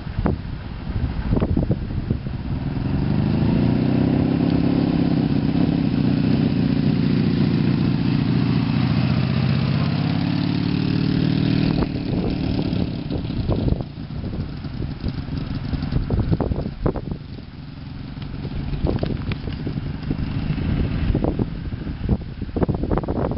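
A Honda VF500F Interceptor's V4 engine running at low speed close by, its pitch rising, dipping and rising again. After about twelve seconds the engine fades and gusty wind buffets the microphone.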